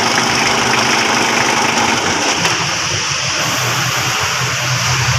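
Mitsubishi Adventure's 4D56 diesel engine running steadily, its sound shifting about two seconds in.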